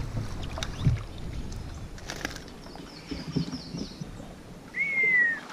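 A bird calling over low wind and water noise: a quick run of short, high chirps about three seconds in, then a single clear whistle that falls slightly near the end.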